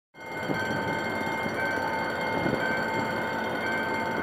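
GM GT22CW-2 diesel locomotive running as it hauls a passenger train toward a level crossing, with a low steady rumble under the steady ringing of the crossing's warning bell.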